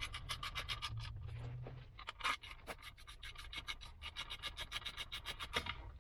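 Socket ratchet clicking rapidly, about eight to ten clicks a second, in two runs with a short pause near the middle, as the bolts of a Kawasaki Z900's stator cover are run in.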